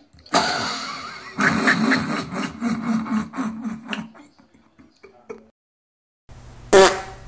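A long, rasping fart sound lasting about three and a half seconds, sputtering out into a few separate pops. A short, sharper and louder burst follows near the end.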